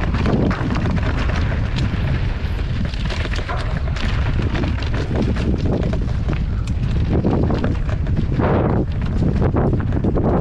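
Mountain bike riding down a loose, dusty dirt trail, heard from a mounted action camera: a steady heavy rumble of wind buffeting and tyres on dirt, with frequent knocks and rattles from the bike over rough ground.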